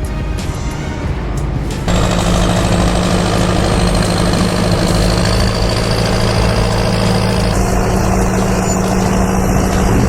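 Background music, then about two seconds in a loud, steady machine drone cuts in with a low, even hum and runs almost to the end.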